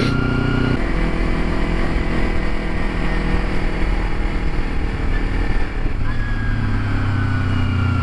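Motorcycle engine running while riding, over a steady rush of noise; the engine note drops about a second in and rises again about six seconds in.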